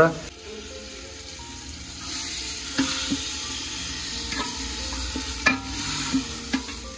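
Chicken pieces sizzling in spice masala in an aluminium pot, stirred with a metal spatula that scrapes and knocks against the pot about six times. The sizzle grows louder about two seconds in.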